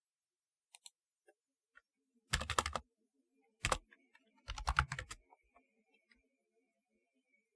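Typewriter-style computer keyboard being typed on: two short quick runs of key clicks about two seconds apart, with a single keystroke between them.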